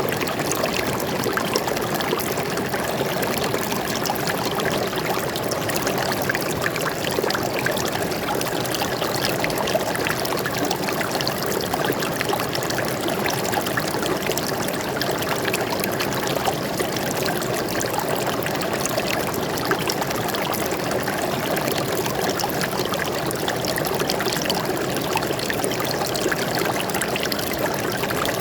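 Stream water flowing and trickling steadily, an unbroken splashing rush with no change in level.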